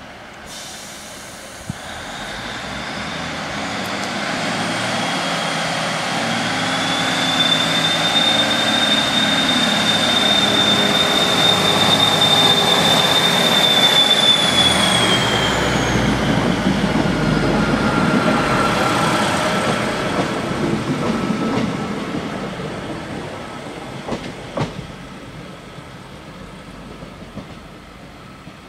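Class 156 Super Sprinter diesel multiple unit pulling out of a station, its underfloor diesel engines growing louder, passing, then fading away. Through the loudest part there is a high, steady squeal from the wheels, which falls away as the train moves off. Near the end come a few brief clicks as it goes over the rails.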